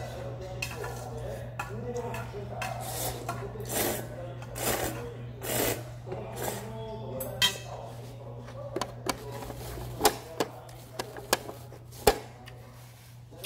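Slurping cold buckwheat noodles and broth in several half-second swells, then sharp clinks of utensils against the bowl near the end, over a steady low hum.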